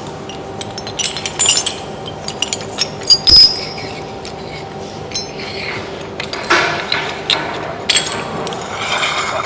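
Scattered metal clicks and clinks, with short stretches of clatter, as abrasive tools and plates are handled on a concrete floor grinder. A faint steady hum runs underneath.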